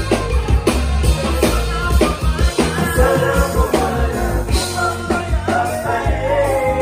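A band playing loud music: drum kit hits over a heavy bass line, with a voice singing over it from about two and a half seconds in.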